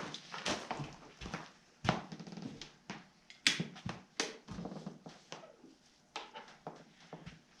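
Scattered knocks and clicks at an uneven pace, a few a second, from objects being handled and set down.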